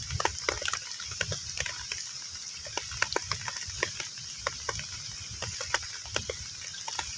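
Rain falling on a pond's surface: a steady hiss of rain with many separate drops plinking and plopping into the water at an irregular pace, over a low rumble.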